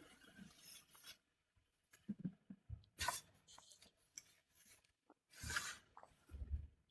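Faint rustling and handling noises, scattered soft scrapes and taps, with two brief louder rustles about three seconds and five and a half seconds in.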